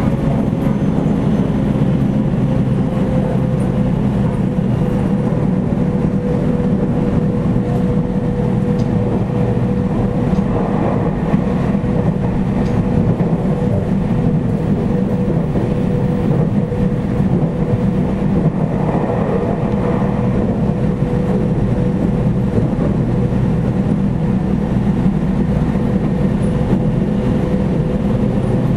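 Running sound inside a JR Central 313 series 8000 subseries electric train car at its end section: a steady low rumble of the wheels on the rails, with a steady mid-pitched hum throughout.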